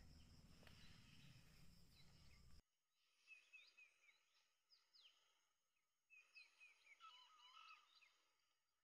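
Near silence with faint bird chirps: a few clusters of short, high chirps, starting about three seconds in and fuller near the end.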